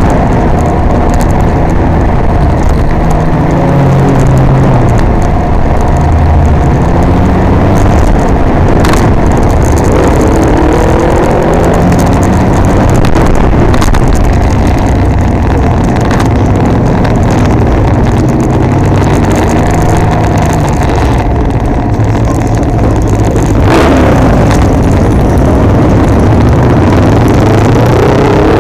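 Can-Am Ryker Rally 900's three-cylinder engine running under way, its pitch rising and falling several times as it speeds up and slows in traffic.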